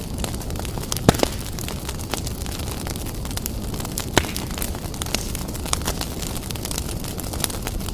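Wood fire burning strongly in a fireplace: a steady low rumble of flame with constant crackling and sharp pops, two louder pops about a second in and about four seconds in.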